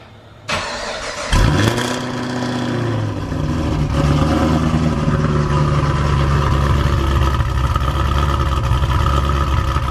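2016 Chevrolet SS supercharged LSA V8 cranking and firing up about a second in, flaring loudly and then falling back to a steady idle. The exhaust runs through American Racing 1-7/8" long-tube headers, an X-pipe with the resonators deleted, and the stock bimodal mufflers, and the engine has a larger cam.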